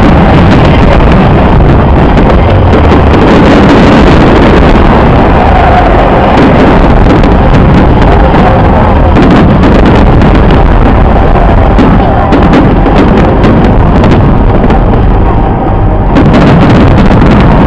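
Dense barrage of fireworks bursts, heard as many quick bangs running together so loud that the microphone is overloaded into continuous distorted noise, with a brief dip about sixteen seconds in.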